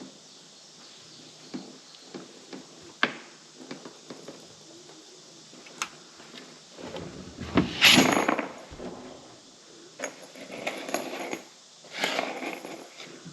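Clicks, clinks and knocks of a screwdriver, screws and the plastic cover being handled on a rooftop RV air conditioner as it is unscrewed and worked loose. The loudest part is a longer scraping, rustling spell about seven seconds in, with shorter ones near the end.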